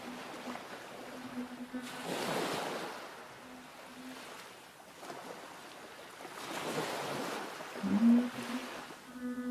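Sea waves washing in twice, swelling and fading, under a long held low hummed or sung note that breaks off and slides back up into pitch near the end.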